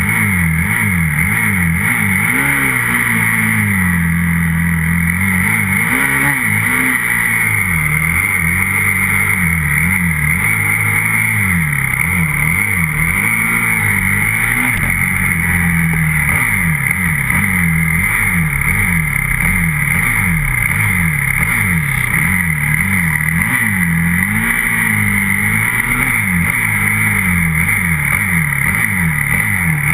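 125cc grass-track motorcycle engine, heard close up, revving up and down over and over, its pitch rising and falling about once a second.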